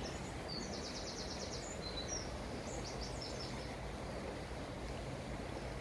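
A small bird sings high-pitched chirps and a quick trill during the first half, over a steady outdoor background noise.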